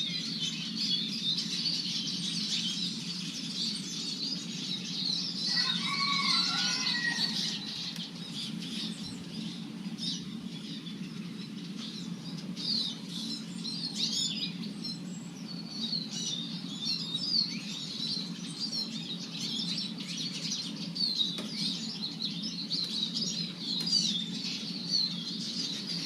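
Eurasian siskins chirping and twittering at a feeder: a continuous stream of quick, high notes over a steady low hum. About six seconds in, a lower call of several rising and falling notes sounds for about two seconds.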